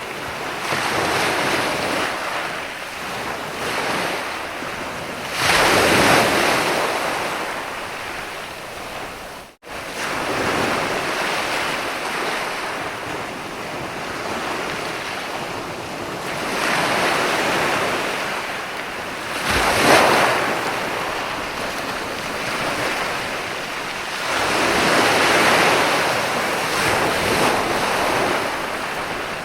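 Sea waves breaking and washing up a beach, the surf swelling and ebbing with each wave, loudest about six seconds in and again about twenty seconds in. The sound cuts out for an instant a little before the ten-second mark.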